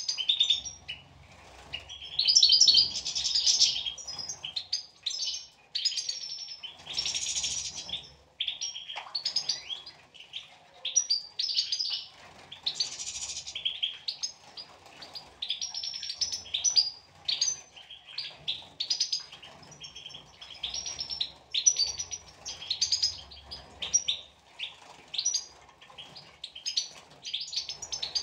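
Several European goldfinches chirping and twittering in quick, overlapping short phrases. A few louder bursts of noise come about three, seven and thirteen seconds in.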